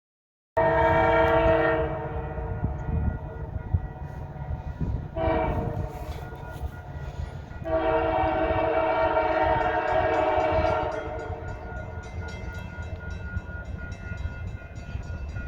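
Locomotive air horn on the approaching CPKC Holiday Train, sounding a long blast, a short one, then a long one, the pattern sounded for a grade crossing, over the low rumble of the moving train.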